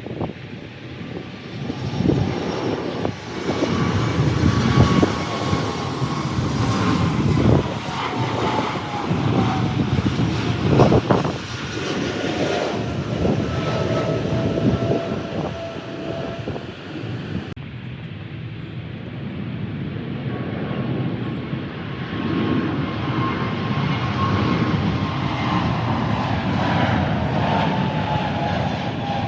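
Jet airliner passing low overhead on its landing approach: a loud engine rush with a whine that slowly falls in pitch as it goes by. About two-thirds of the way through, the sound cuts abruptly to another approaching jet, whose whine again drifts downward.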